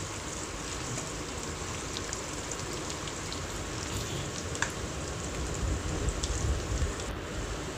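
Chopped onions, garlic and curry leaves frying in sesame oil in a pan: a steady sizzle with a few faint crackles.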